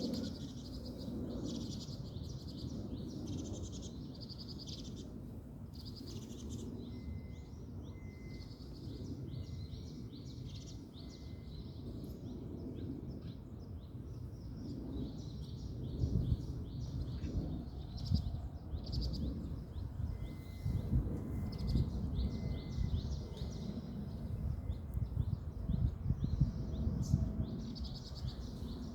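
Small birds chirping and twittering continuously, with a run of evenly spaced short piping notes repeated twice. Under them is a low rumbling background noise that gets stronger and more uneven in the second half.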